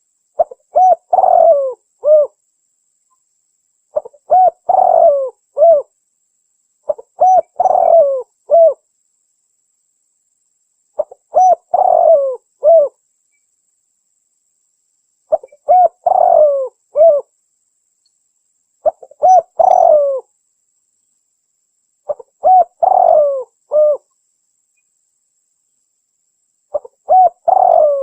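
Spotted dove (tekukur) cooing: the same short phrase of several coos, the last one drawn out and falling, repeated about every three and a half seconds. This is a lure call for hunting spotted doves, presented as a female calling a male.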